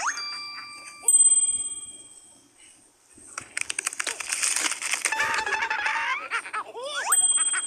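Cartoon sound effects: a bright bell-like ding about a second in that rings out and fades, then a busy stretch of rapid rustling and squeaky, chattering sounds, and a quick rising swoop ending in another ding near the end.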